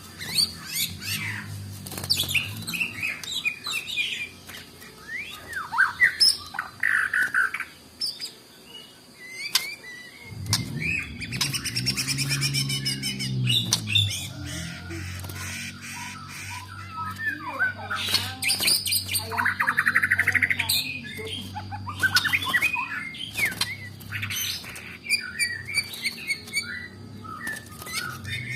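Caged songbird singing a varied, fast song of chirps, trills and squawky calls, its repertoire filled with mimicked calls of other birds, over a low hum that swells about ten seconds in.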